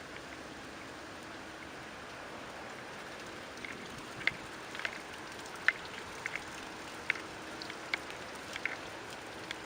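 Steady rain falling, with scattered sharp drips tapping, more of them from about the middle on.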